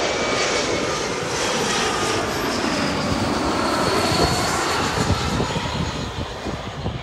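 Jet airliner passing low overhead on final approach: a loud rushing engine roar with a deep rumble, and a faint whine that slowly falls in pitch as the plane goes by. The sound eases off over the last couple of seconds.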